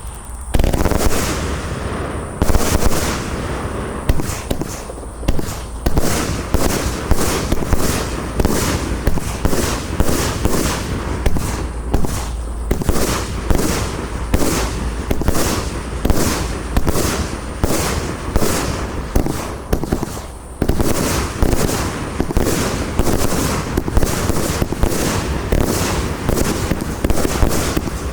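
Compound fireworks cake with 30 mm tubes firing a rapid sequence of shots and aerial bursts, about two a second, with crackle and rumble between them and a brief pause about 20 seconds in.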